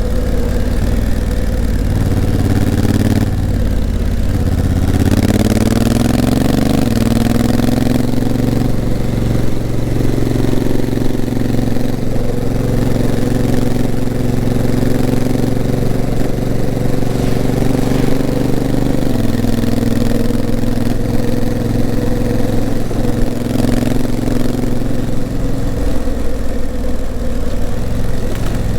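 Honda CRF1000L Africa Twin's 998 cc parallel-twin engine pulling under way. The revs dip briefly about three seconds in, then rise and hold steady. The pitch steps down about two-thirds of the way through, as at a gear change of its dual-clutch gearbox.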